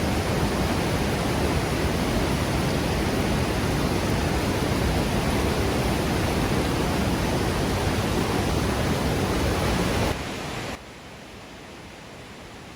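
Steady, loud rush of water from Dawson Falls, a wide waterfall on the Murtle River. About ten seconds in it cuts off suddenly to a much quieter hiss.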